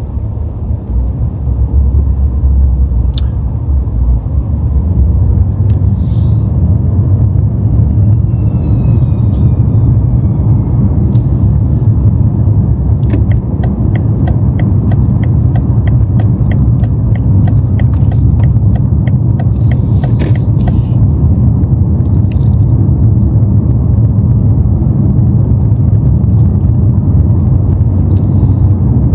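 BMW M5 driving at low speed, a steady low rumble of engine and road noise. Midway a regular ticking, about three ticks a second, runs for several seconds.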